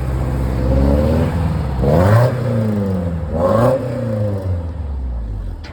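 Car engine running and revved twice, each rev rising sharply and falling back, about two seconds in and again a second and a half later.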